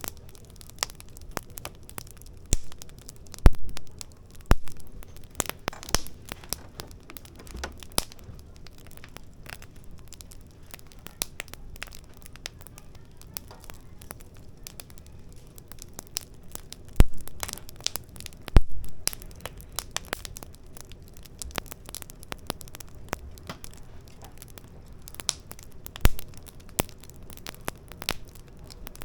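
Firewood burning in a fire pit, crackling with irregular small snaps and several louder pops over a low steady hiss.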